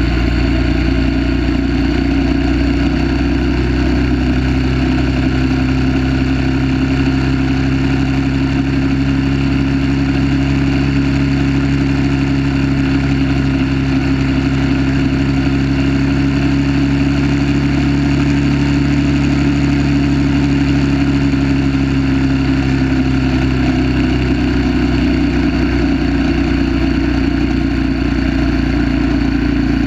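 1930 Terrot 350 HST single-cylinder four-stroke engine running hard at a steady racing pace, heard from on board with wind rushing over the microphone. Its note climbs a little midway and eases back near the end.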